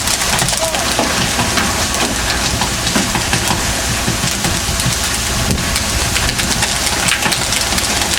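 A fishing boat's engine running steadily under a constant loud rushing noise.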